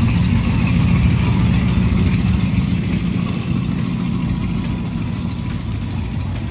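A vehicle engine running with a low, uneven rumble. It starts abruptly and eases off slightly toward the end.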